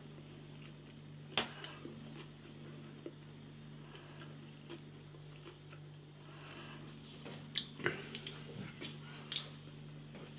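Faint mouth sounds of a man chewing a mouthful of beef burger, a few soft clicks and smacks, over a steady low hum.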